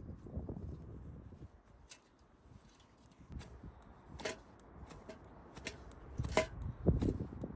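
Dry twigs and driftwood debris being snapped and handled: scattered sharp cracks and clicks, two louder ringing snaps about four and six seconds in, over low rustling.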